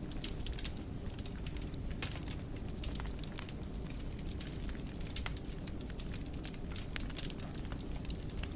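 Wood fire burning in a fireplace: a steady low rumble of the flames with frequent sharp crackles and pops, several a second.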